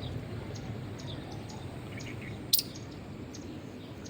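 Steady low outdoor background hum with faint short high chirps scattered through it, and one sharp click about two and a half seconds in.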